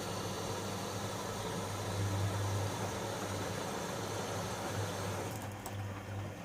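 Privileg Sensation 9245 washing machine running: a steady low hum with a hissing noise over it. The hiss drops away about five seconds in, leaving the hum and a few faint clicks.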